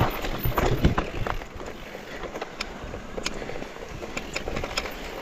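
Mountain bike rolling over a rough forest trail: tyre noise with many short clicks and rattles from the bike, louder for the first second or so and then easing off.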